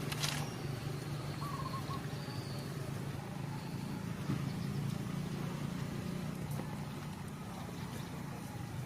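A steady low hum with a few faint bird chirps in the first couple of seconds.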